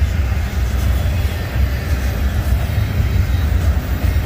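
Train passing, a loud, steady low rumble with no breaks.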